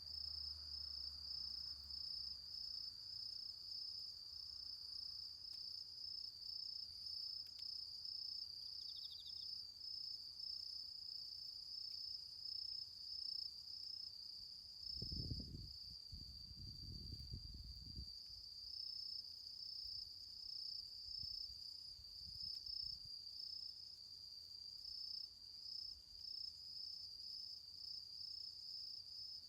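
Crickets chirping steadily, a high, evenly pulsing trill that runs on without a break. About halfway through there is a brief low rumble.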